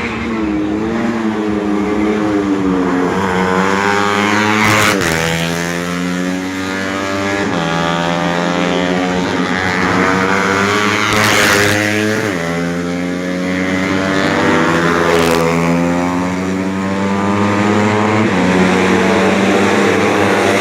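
Four-stroke 125 cc underbone racing motorcycle engine at full throttle, its pitch climbing steadily and then dropping sharply three times as it shifts up through the gears.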